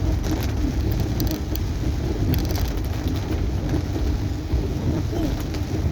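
Rain falling on a moving car, heard from inside the cabin over a steady low road and engine rumble, with a few faint clicks about a second and a half in and again around two and a half seconds.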